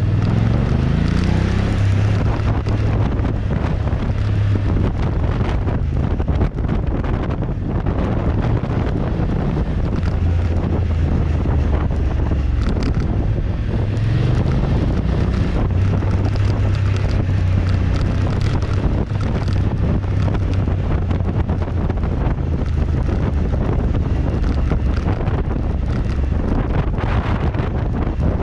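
Motorcycle engine running on the move, with heavy wind noise buffeting the microphone. The engine pitch rises as it accelerates about a second in, and again about halfway through.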